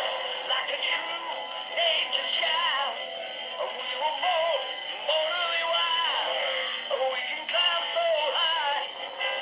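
Small speaker of an animated motorcycle Santa toy playing a Christmas song with a male singing voice; the sound is thin and tinny, with no bass.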